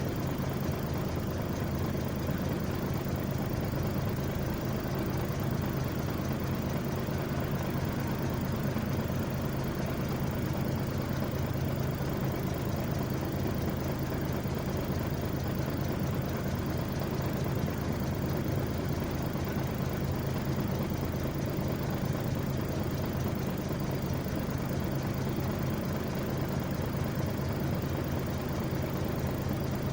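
Heavy engine running steadily at an even, low idle-like pitch, with no change in speed.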